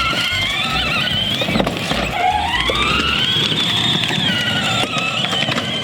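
Electric motor of a kids' ride-on toy vehicle whining as it drives off, the whine rising and falling in pitch with speed.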